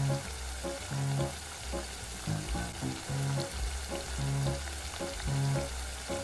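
Crab in sauce sizzling in a miniature wok, over background music with a repeating bass line about twice a second.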